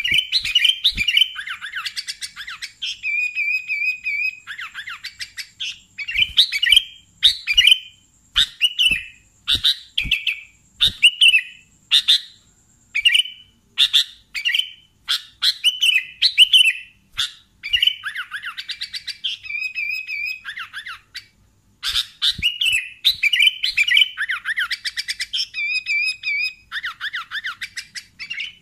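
Sooty-headed bulbul (kutilang) singing persistently: short, bright whistled phrases repeated about once a second with brief pauses, including a few wavering trilled notes.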